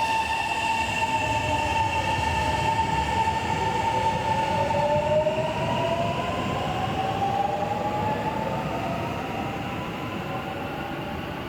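Kintetsu electric commuter train moving at the platform, with a steady whine and a second tone that rises in pitch through the middle, over a low rumble. The sound eases off near the end.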